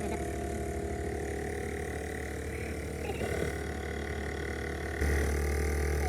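A steady machine hum holding a few fixed tones, which steps up louder about five seconds in, with faint voices in the background.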